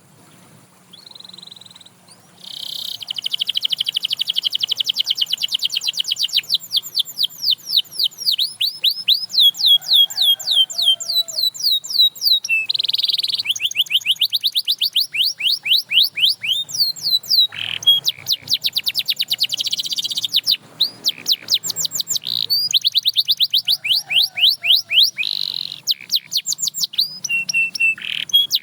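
Canary singing: long rolling phrases of rapid, evenly repeated high notes and sweeps, starting about two seconds in and broken by short pauses between phrases.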